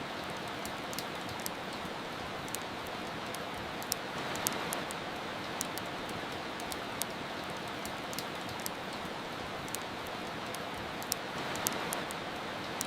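Steady rain hissing, with a wood fire crackling over it in sharp, irregular pops.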